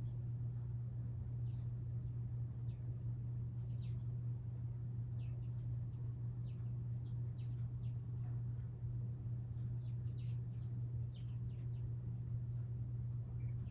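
Small birds chirping, with short high notes, many sliding downward, scattered irregularly and coming thicker in the second half. Beneath them runs a steady low hum.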